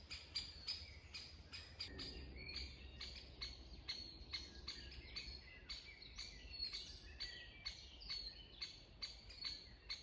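Birds calling: a sharp high chirp repeats evenly about three times a second, and other birds' gliding whistles are mixed in through the middle.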